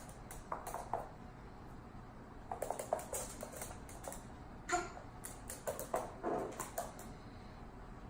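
African grey parrot making clusters of small clicks and taps, with one brief pitched squeak just before halfway through.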